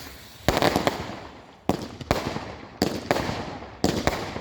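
Fireworks exploding: about six sharp bangs in four seconds, each dying away in a rumbling echo, with two pairs close together near the middle and one more near the end.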